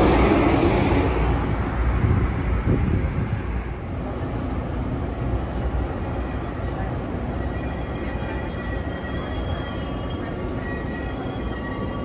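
Double-deck passenger train rolling past along a station platform and slowing, its loud rushing running noise dying down about four seconds in. After that, thin high wheel and brake squeals sound over a quieter rumble.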